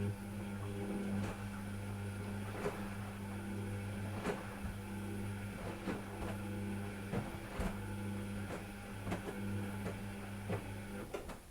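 A steady machine hum with irregular sharp clicks and knocks over it, stopping about a second before the end.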